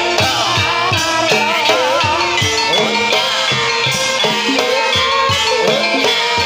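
Javanese ebeg (kuda kepang) dance music: an ensemble of pitched percussion with steady drum strokes and a melody that wavers up and down in pitch.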